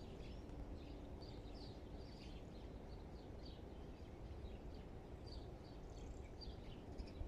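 Small birds chirping, many short high chirps again and again, over a steady low rumble of outdoor background noise.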